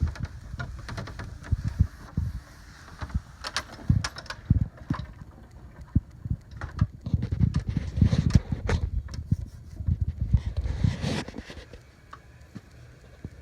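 Strong storm wind buffeting the microphone in irregular gusts, a low rumble, with scattered light ticks, easing near the end.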